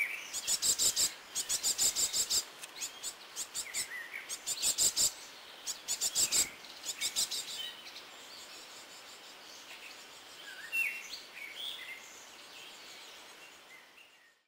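Small songbirds giving short chirps at a seed feeder, over a quick run of sharp clicks and taps during the first half; the chirps then come more sparsely and the sound fades out near the end.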